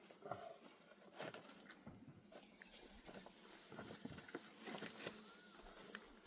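Faint, scattered knocks and clicks at irregular intervals.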